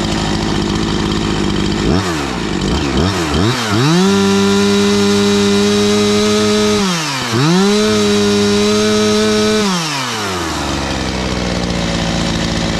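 Husqvarna 345 two-stroke chainsaw idling, then blipped a few times and run up to wide-open throttle and held there twice, with a short dip between, before dropping back to idle. It is free-running at maximum revs for a top-RPM check, its high-speed mixture screw set as rich as the limiter allows.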